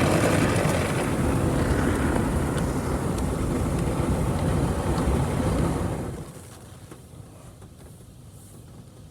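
Washworld Profile Max car wash gantry spraying water onto the car, a loud, steady hiss that cuts off about six seconds in, leaving only a quiet hum.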